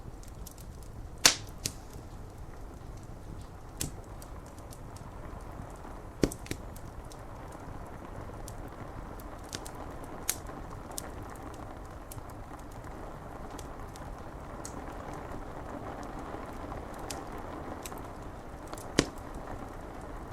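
Wood fire crackling with several sharp pops, the loudest about a second in and near the end, over a steady hiss of rain on window glass.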